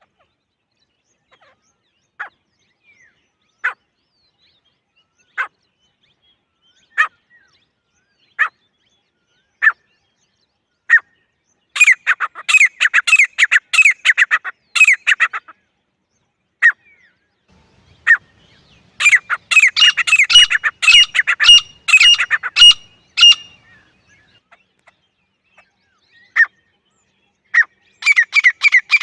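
Grey francolin calling: sharp single call notes about every second and a half, then two long runs of fast repeated notes. A third fast run starts near the end.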